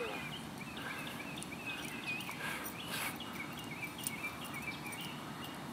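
Small birds chirping over and over in short, quick notes, over a steady low background rumble.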